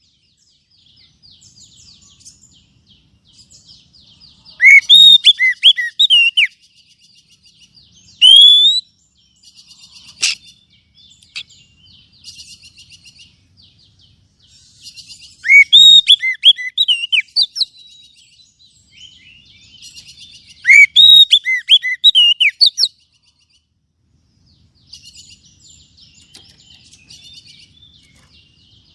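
Oriental magpie-robin (kacer) singing: loud whistled phrases of quick falling notes every few seconds, with softer rapid chattering between them.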